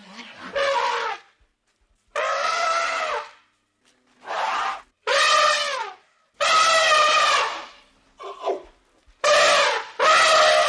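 Sheep bleating over and over, about eight wavering calls of half a second to a second and a half each, with short gaps between them.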